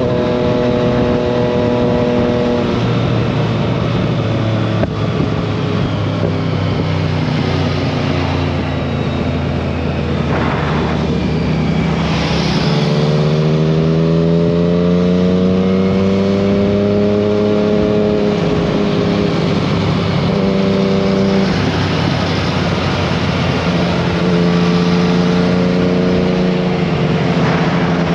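Motorcycle with an Akrapovic aftermarket exhaust being ridden, engine note holding steady at speed. About halfway through, its pitch rises over several seconds as it accelerates, over a steady rushing noise.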